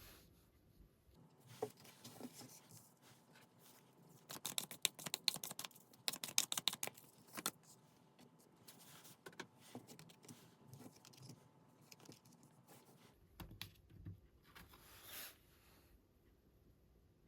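Tarot cards being shuffled and handled: soft rustling and slides, with a rapid flurry of crisp card clicks in the middle.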